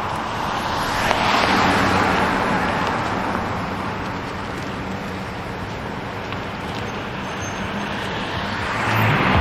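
City street traffic: cars passing, one swelling past about a second in and another near the end, over a steady low engine hum.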